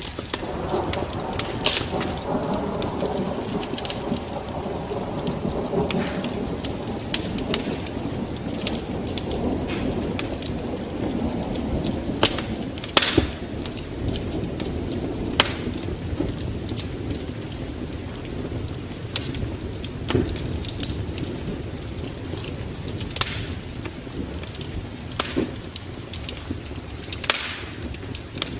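Wood fire in a fireplace crackling, with sharp pops at irregular intervals over a low, steady rumble of the flames.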